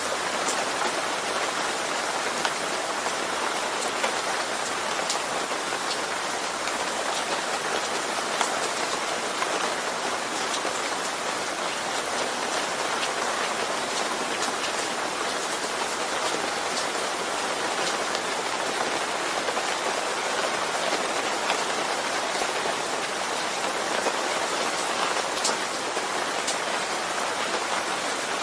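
Steady rainfall, an even hiss of rain with scattered sharper ticks of single drops striking a surface.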